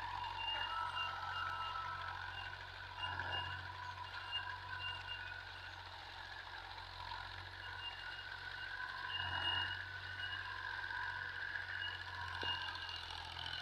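Tractor engine running steadily: a constant low hum with higher whining tones that come and go over it.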